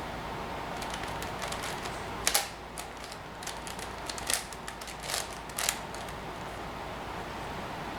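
Plastic clicking and clacking of a 5x5 Rubik's cube as its layers are turned by hand: a run of quick turns with a few louder snaps, stopping about six seconds in.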